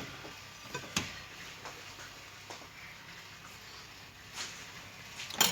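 A few isolated light clicks and knocks of cookware being handled over a quiet kitchen background, one about a second in and a louder one near the end.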